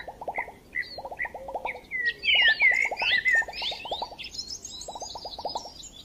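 Several birds chirping and whistling, with a loud flurry of twittering calls about two to three and a half seconds in. Underneath, a low, rapid clicking call repeats in short runs.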